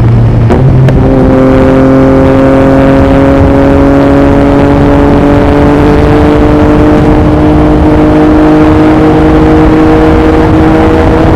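2021 Yamaha MT-09's three-cylinder engine through an Akrapovič racing exhaust. It upshifts about half a second in, with a brief crackle and a drop in pitch, then pulls steadily under load, its note slowly rising. Wind buffets the microphone throughout.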